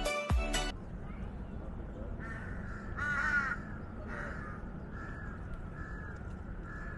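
A bird calling several times with short harsh caws over steady outdoor background noise; the loudest call comes about three seconds in. Background music cuts off in the first second.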